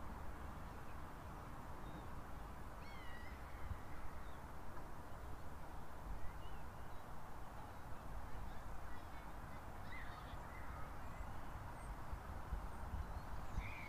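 A low, steady background rumble with faint bird calls scattered through it: short chirps and gliding whistles a few seconds apart, the clearest near the end.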